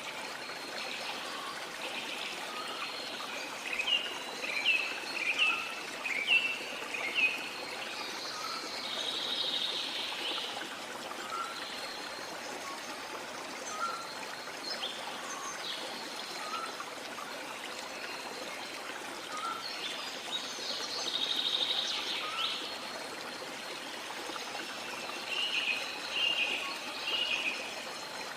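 A river flowing steadily, with birds calling over it: a run of quick, sharp chirps, a warbling phrase, and later another run of chirps.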